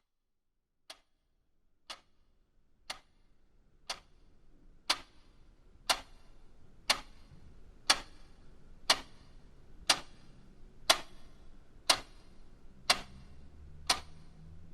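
Clock ticking, one tick a second, growing louder over the first few seconds, with faint low background hum coming up beneath it.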